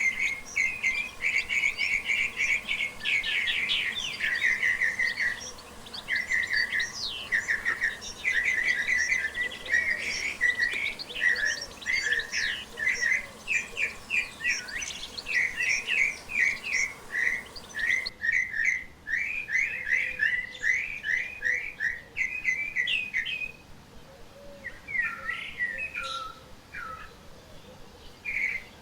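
Wild forest birds calling in dense, rapid runs of high chirping notes. About two-thirds of the way through the calls thin out to scattered, sparser chirps and short falling notes.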